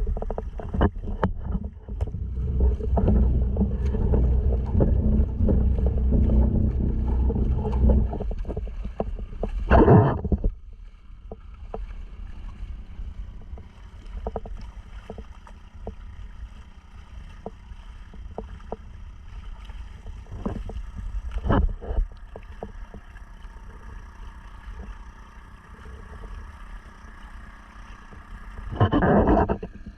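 Sea kayak under way with a small Honda 2.3 outboard running steadily, water rushing along the hull and wind on the microphone. It is loudest for about the first eight seconds, then quieter. Sharp splashes come about ten, twenty-one and twenty-nine seconds in.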